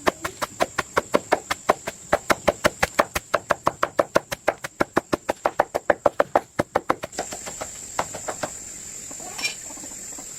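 Rapid, even knocking, about five strikes a second, like blows on wood or a board, that stops about seven seconds in. A steady high insect drone runs underneath and is louder after the knocking ends.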